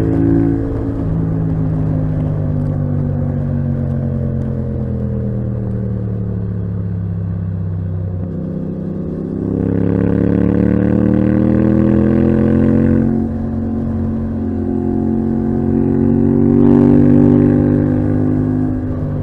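Yamaha MT-07's 689 cc 270-degree parallel-twin through a titanium Akrapovic exhaust, heard from the rider's seat. The revs fall steadily through the first half as the bike slows off the throttle, then the engine pulls up again and gets louder under acceleration, eases briefly, and climbs once more before settling near the end.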